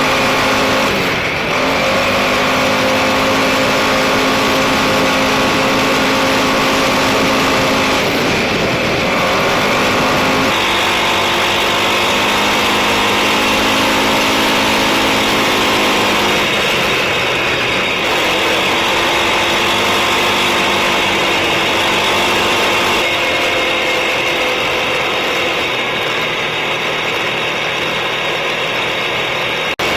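Suzuki KingQuad ATV engine running under way, its pitch holding steady and then stepping up or down several times as speed changes.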